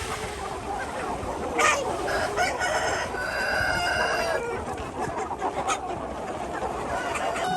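A flock of chickens clucking continuously, many birds calling over one another, with one long, held call standing out about three seconds in.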